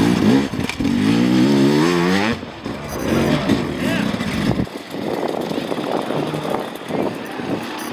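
Off-road dirt bike engines revving, the throttle worked on and off in quick blips so the pitch rises and falls several times about a second in.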